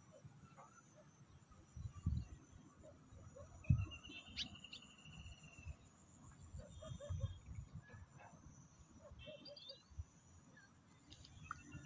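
Faint waterside ambience: birds chirping now and then, with one longer trilling call about four seconds in, over a steady high insect drone. A few soft low thumps come through, the loudest about two and nearly four seconds in.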